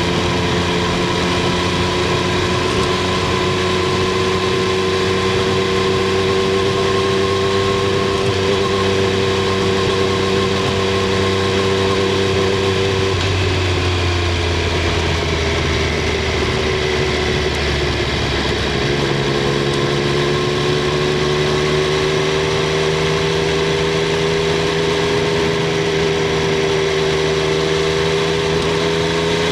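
Triumph Street Triple 765 R's three-cylinder engine running steadily. The note drifts gently in pitch, changes for several seconds midway, then settles again.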